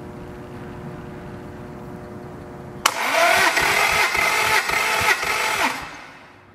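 Toyota 3S-GE Beams engine being cranked by its starter motor for a compression test: a loud, rhythmic pulsing whir that starts suddenly a few seconds in and stops after about three seconds. A steady hum is heard before it.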